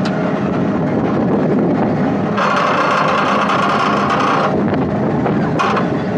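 Amusement-park helicopter ride running, a steady loud mechanical noise with wind buffeting the microphone. A high-pitched tone comes in for about two seconds in the middle and again briefly near the end.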